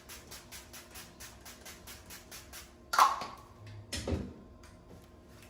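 Rapid, even swishing, about five strokes a second, from makeup being applied, which stops shortly before a sharp click. A dull knock follows about a second later, as of a makeup item being snapped shut and set down.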